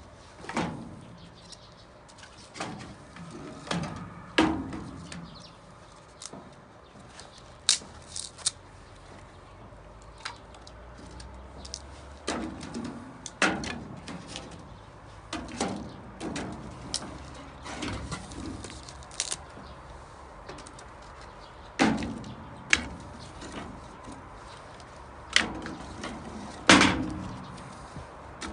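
A series of irregular sharp knocks and clunks, one every second or two, a few of them louder.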